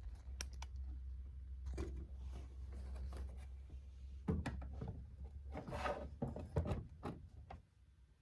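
Camera and tripod being handled and adjusted close to the microphone: scattered clicks, rubbing and small knocks, busier in the second half, over a low steady hum.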